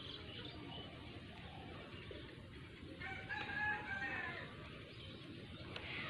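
A single drawn-out bird call, a little over a second long, about halfway through, heard faintly over low background noise.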